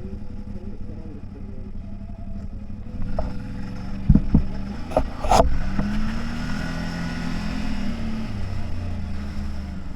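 CFMOTO 1000 off-road vehicle's engine running at low revs while driving, with a few sharp knocks or clunks about four to five seconds in. The engine pitch then rises and falls gently.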